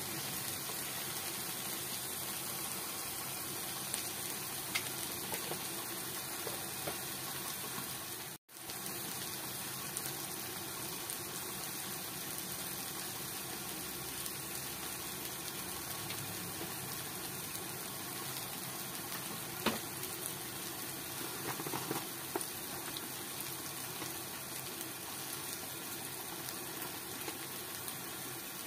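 Ground onion-ginger-garlic-tomato spice paste frying in oil in a kadai, a steady sizzle with a few light scrapes of a metal spatula. The masala is being fried down. The sound cuts out for a moment about eight seconds in.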